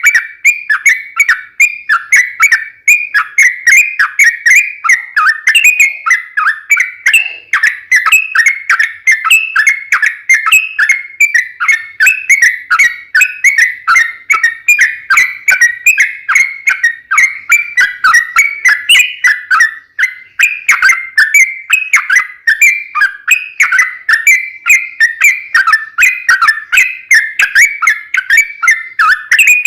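Yellow-vented bulbul (trucukan) singing vigorously in a long, unbroken run of bright, rapid whistled notes, several a second, with no pause.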